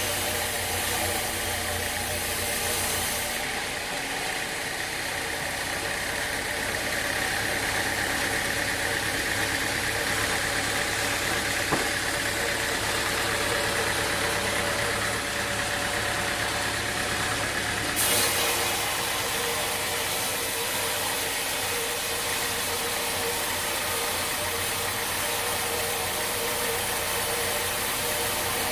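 A machine engine running steadily, with a brief click about twelve seconds in.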